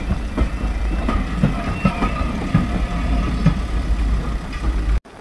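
Passenger train coaches rolling past over a level crossing, their wheels clacking over the rail joints about twice a second. Under it runs a steady low rumble of wind on the microphone, and the crossing's warning alarm sounds faintly. The sound cuts off sharply near the end.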